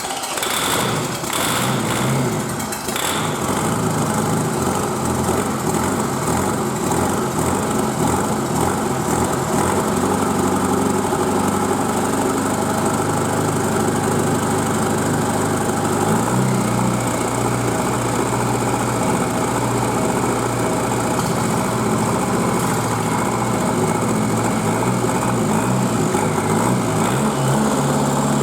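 Kia Sportage 2.0 CRDi D4EA four-cylinder common-rail turbodiesel, run out of the car on a test stand, idling steadily just after starting. Its idle note shifts slightly a little past halfway and again near the end.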